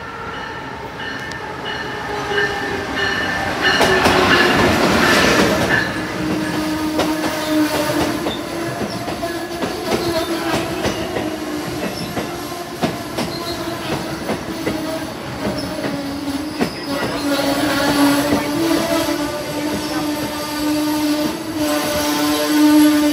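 Amtrak passenger train arriving. Its electric locomotive passes close about four seconds in, then the stainless-steel coaches roll past, slowing, with a steady high squeal from the wheels and brakes.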